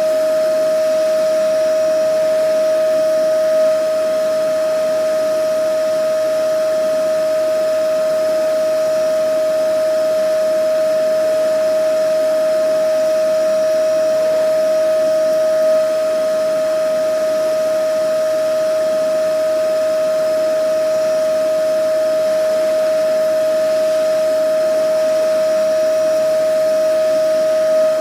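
Vacuum cleaner running steadily: a constant high motor whine over a rushing hiss of air, with no change in speed apart from a slight swell about every twelve seconds.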